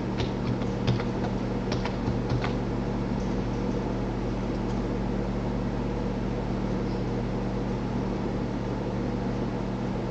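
A handful of light computer-keyboard keystrokes in the first couple of seconds, over a steady low electrical hum that runs throughout.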